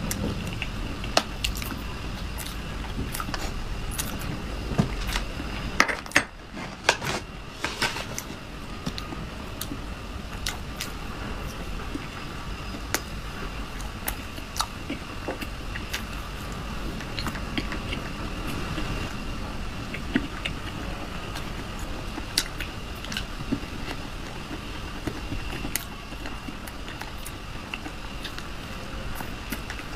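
Close-miked eating sounds: chewing soft desserts, with many small sharp mouth clicks and smacks scattered throughout, over a steady faint hiss.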